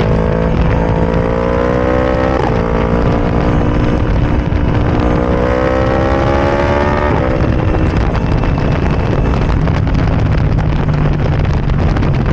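Yamaha R1 crossplane inline-four running through a decatted Arrow Racing exhaust with no baffle, very loud. Its pitch climbs steadily under acceleration, drops sharply at an upshift about two seconds in, climbs again and drops at a second shift about seven seconds in, then settles to a steadier, lower note.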